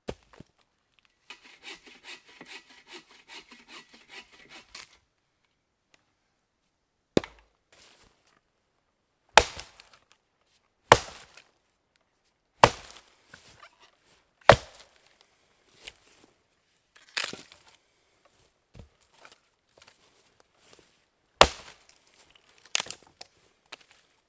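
Firewood being cut: a few seconds of sawing strokes, then an axe chopping wood in about ten sharp, loud blows spaced one to two seconds apart.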